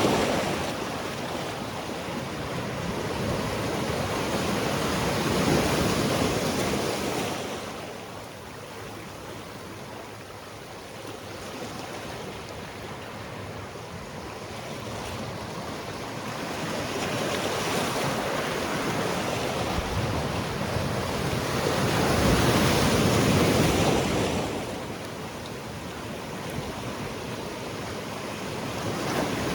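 Sea waves washing onto a rocky shore, a steady surf that swells to two louder surges and falls back between them.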